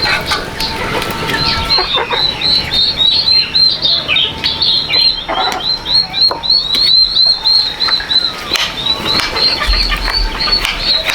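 Many chicks peeping together, a dense run of short, high chirps, several a second, without pause.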